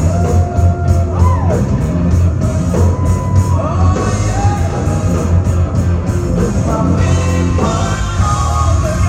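Rock band playing, with a singer holding long, wavering notes over guitar, bass and drums.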